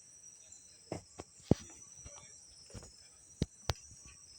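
Steady high-pitched insect chorus, typical of crickets, with a handful of short sharp knocks, the loudest about a second and a half in.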